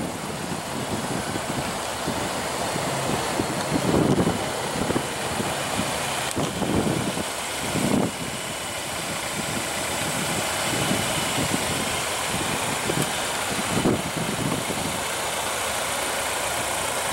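2016 Volvo XC90's 2.0-litre supercharged and turbocharged four-cylinder engine idling steadily.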